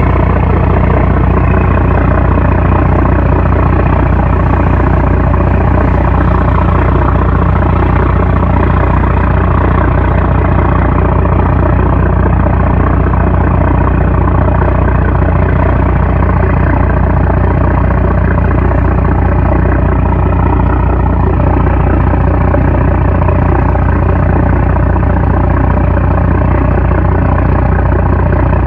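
A 750-horsepower trawler's diesel engine running loud and steady, holding one constant pitch.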